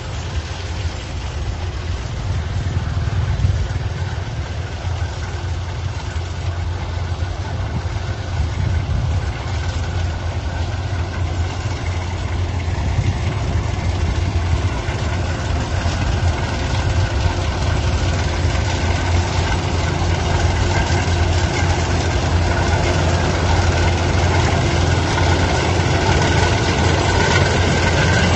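Engine of a heavy farm machine running steadily with a deep low hum, getting slightly louder over the last third.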